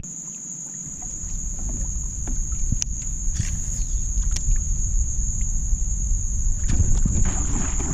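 Marsh insects buzzing in one steady high tone, over a low rumbling noise and a few faint knocks from the kayak.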